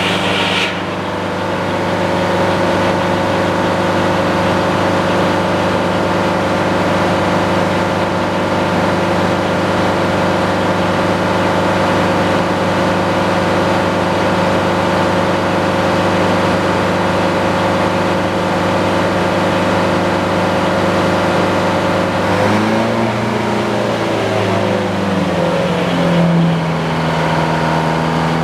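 Sawmill engine running steadily at working speed, with a higher hiss that stops just after the start. About 22 seconds in, its pitch wavers and then drops to a lower steady speed as it is throttled back.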